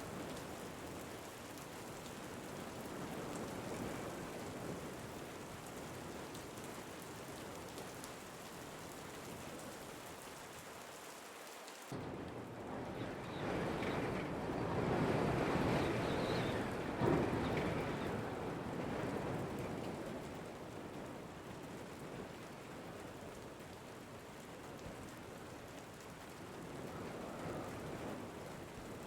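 Steady rain on an ambient rain-and-wind soundscape. About twelve seconds in the texture changes abruptly, and a fuller swell builds and fades over about six seconds, peaking sharply once, before the steady rain settles back.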